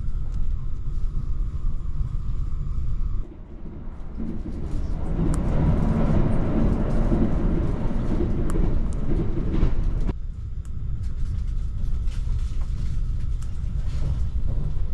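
Passenger train running noise heard from inside the carriage: a steady low rumble. It shifts abruptly twice, and is louder and fuller for several seconds in the middle.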